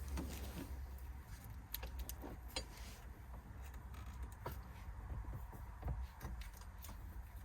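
Faint handling noise: scattered light clicks and rustles from working with small parts and tape by hand, over a low steady hum.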